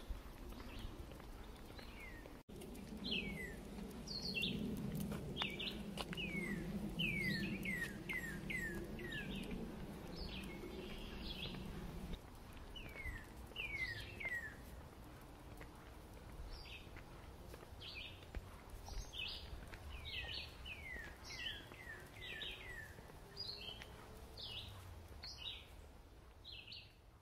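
Birds chirping over and over, many short chirps that slide down in pitch, with a low rumble underneath through the first half.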